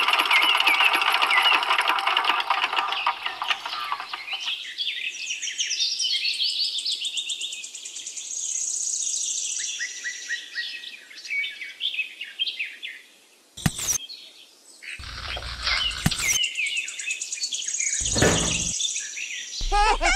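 Birds chirping and tweeting. For the first few seconds a small motor's fast rattle carries on, then cuts off. A few brief knocks or rustles come in the second half.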